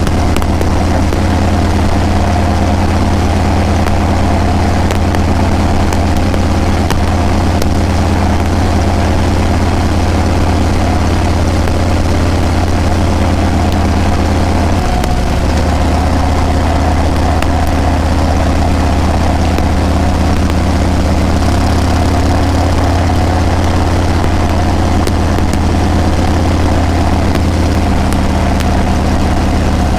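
Harley-Davidson Breakout's V-twin engine and exhaust running steadily under way, a low, even exhaust note whose pitch steps down slightly about halfway through.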